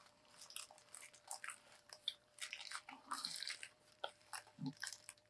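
Quiet close-up eating sounds from a chicken sandwich being bitten and chewed: scattered soft crunches and wet mouth clicks.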